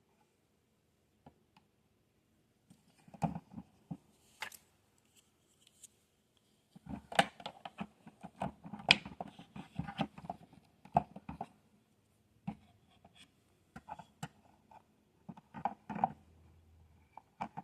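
Small plastic toy pieces being handled: irregular bursts of light clicks, taps and scrapes, with short pauses between.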